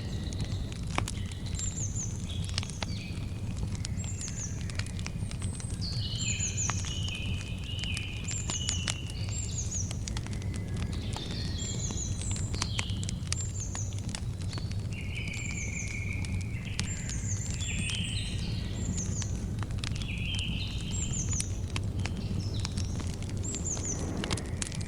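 Campfire crackling with scattered sharp pops over a steady low rumble, while birds sing throughout in many short, high, falling chirps.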